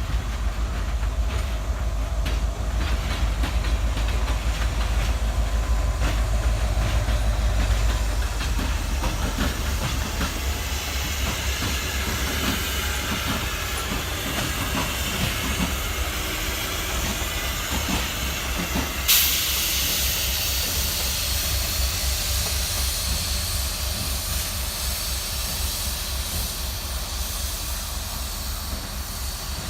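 CSX freight train passing: a heavy diesel locomotive rumble for the first quarter, then rapid clicking of the cars' wheels over rail joints. About two-thirds of the way in, a loud hiss of air starts suddenly and keeps going.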